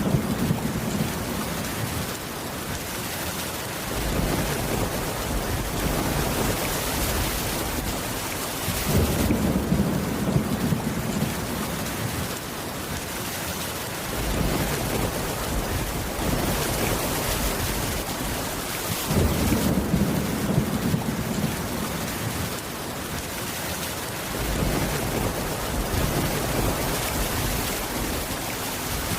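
Steady rain in a thunderstorm, with deep thunder rumbles swelling and fading about every five seconds.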